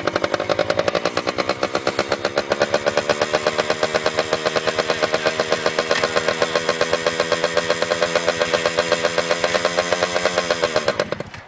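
Dirt bike engine, just kickstarted, idling with a fast even beat, then dying about eleven seconds in: a stall that is put down to not enough gas.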